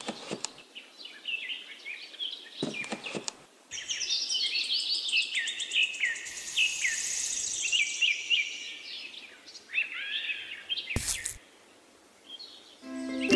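Small birds chirping: many short, quick, sweeping calls, busiest in the middle, with a few sharp clicks. There is a sharp click and a brief lull near the end.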